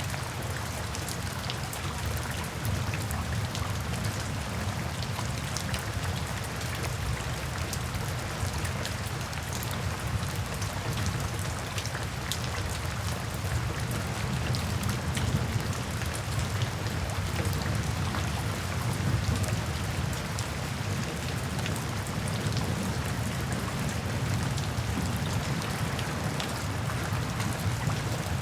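Steady rain falling, with many individual drops ticking on a surface over a continuous low rumble.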